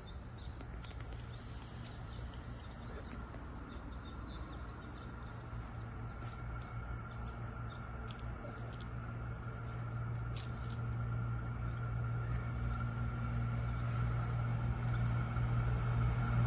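A SMART diesel multiple-unit passenger train approaching: its low engine hum and a thin whine grow steadily louder as it nears. Small birds chirp over it.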